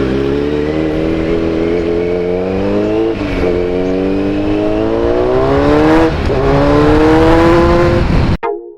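Kawasaki Z900's inline-four engine breathing through an Akrapovic full-system exhaust, accelerating hard through three gears. The pitch rises in each gear and drops sharply at the upshifts, about three and six seconds in. The sound cuts off abruptly near the end.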